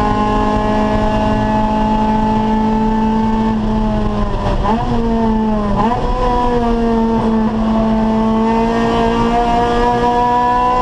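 Acura Integra race car's four-cylinder engine running hard at high revs from inside the car. The pitch eases slightly, dips and jumps sharply twice about four and six seconds in with the gear changes, then climbs steadily as the car accelerates again.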